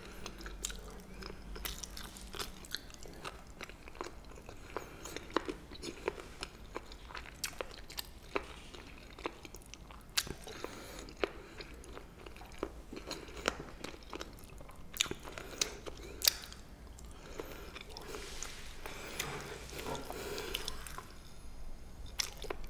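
Close-up chewing of crunchy pa-ganghoe, bundles of blanched Welsh onion (green onion), with many sharp, irregular crunches.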